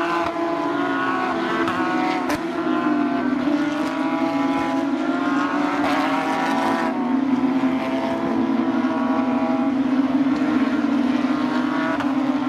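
Porsche 911 GT3 Cup race cars' 3.8-litre naturally aspirated flat-six engines running at racing speed. A steady engine drone sits under pitches that climb and drop again and again as the cars rev through the gears.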